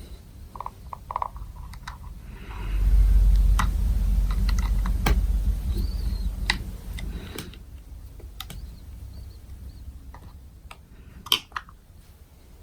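Small plastic clicks and taps from hands working on a motorcycle helmet's rear flap and its small screws, with a low rumbling handling noise for several seconds in the middle and one sharper click near the end.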